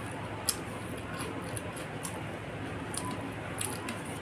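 Close-up wet chewing and lip-smacking, with scattered sharp mouth clicks, the loudest about half a second in, over a steady hiss.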